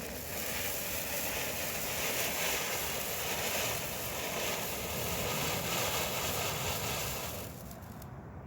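Firework fountain spraying sparks with a steady hiss that lasts about seven and a half seconds, then dies down as it burns out.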